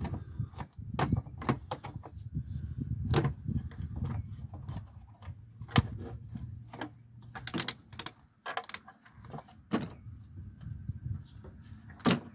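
Irregular clicks, knocks and clatter of hand tools and parts against the engine as it is worked on by hand.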